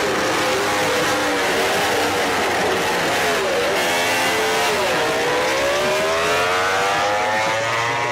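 MotoGP racing motorcycle engines braking and accelerating, more than one bike heard at once. The pitch falls on downshifts about a second in and again around three and a half and five seconds, then climbs steadily as a bike drives out through the gears.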